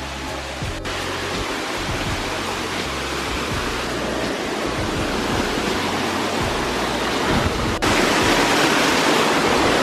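Rushing water of a waterfall: a steady, dense roar, broken by abrupt cuts about a second in and near the end, and louder after the last cut.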